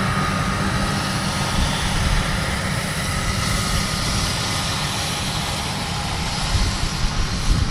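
Tractor engine running steadily while pulling a hay rake through a field, with a broad machinery hiss over a deep engine hum.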